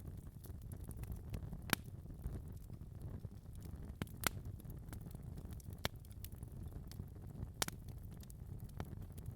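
Wood fire crackling in a fireplace: a steady low rumble of flames with irregular sharp pops and snaps, the loudest about a quarter of the way in, about halfway and near the end.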